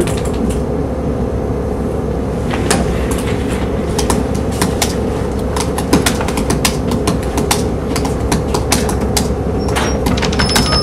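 Steady low hum with irregular sharp clicks that start a couple of seconds in and go on at about two to four a second.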